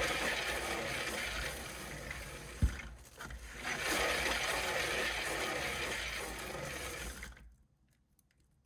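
Cake-decorating turntable spun by hand, giving a steady whirring noise in two runs of about three and four seconds, with a single sharp knock just before the short break between them. The noise stops suddenly about a second before the end.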